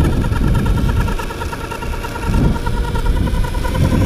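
Blink electric skateboard's belt drive whining with a rapid, regular warble over a low rumble, the whine dying away near the end. The uploader thinks the belt is rubbing against a wobbly drive wheel and gear.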